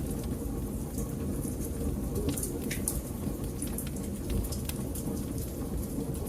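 Wood fire burning in a fireplace: a steady low rumble of flames with frequent small, sharp crackles and pops from the burning wood.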